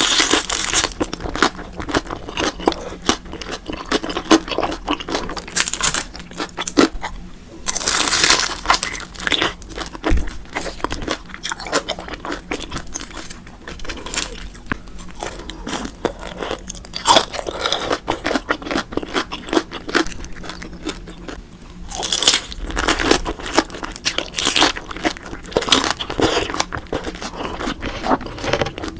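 Close-miked crunching and chewing of deep-fried daechang (intestine) rolls dipped in cheese sauce. There are crisp bites at the start, about eight seconds in and again around twenty-two seconds in, with crackly chewing in between.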